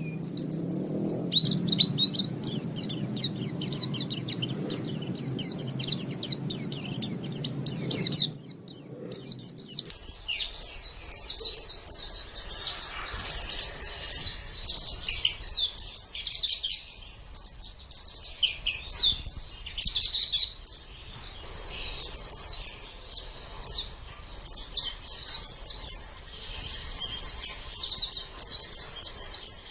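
White-eyes (pleci) singing a fast, high, continuous twittering song of rapid chirps and trills. A low background hum sits under the song for the first eight seconds or so, then stops as the recording changes.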